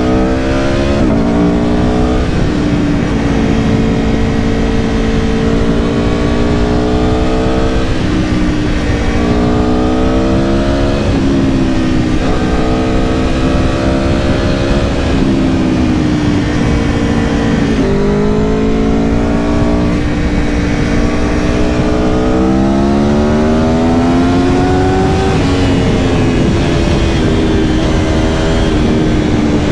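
2022 Aprilia Tuono V4 Factory's V4 engine being ridden hard. Its pitch climbs under throttle and falls back sharply every few seconds, over a steady rush of wind.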